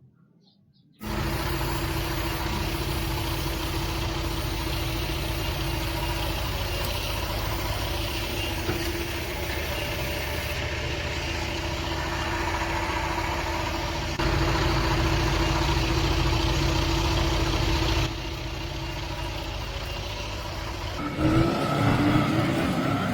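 GMC Vandura van engine running steadily, coming in abruptly about a second in and jumping in level twice, as at cuts; near the end the sound turns uneven and shifting.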